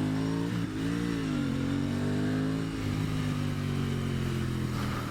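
2023 Aprilia Tuono 660's parallel-twin engine running under way, its pitch rising briefly about a second in, then easing back and holding steady, with wind noise on the microphone.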